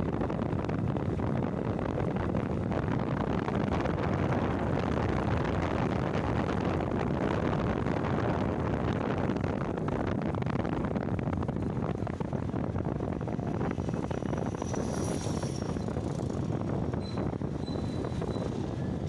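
Steady rush of wind and road noise on a moving motorcycle, the wind buffeting the microphone, easing a little in the second half.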